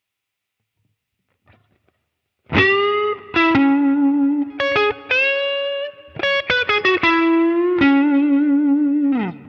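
Electric guitar played through a digital modelled Fender Deluxe clean amp with a Tube Screamer overdrive in front, lightly driven. After a couple of seconds of quiet, a lead phrase of sustained single notes with bends and vibrato, ending on a note that slides down.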